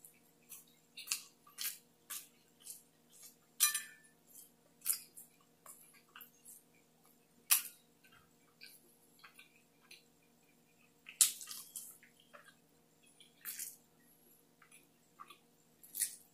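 Close-miked mouth sounds of a man eating a soft tortilla burrito stuffed with curry and rice: irregular wet smacks and clicks of chewing, with a fresh bite near the end. A faint steady hum runs underneath.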